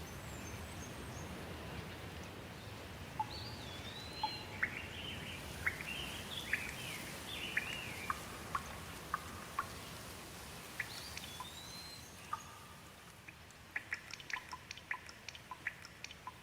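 Steady rain that slowly thins, with a songbird calling a run of short chirps and whistles for several seconds. Near the end, scattered water drops fall one after another, about a few ticks a second.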